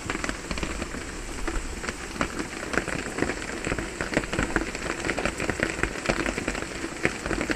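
Rain falling on a metal roof, a steady patter of many drops with sharper individual drop hits.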